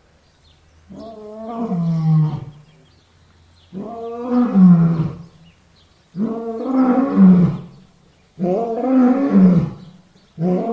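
Lion roaring over and over: four long roars about two seconds apart, each dropping in pitch at its end, with a fifth starting near the end.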